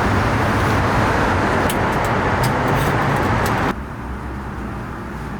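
Road traffic noise: a steady, loud rush of vehicles on the road. It cuts off abruptly a little over three and a half seconds in, leaving a quieter low hum.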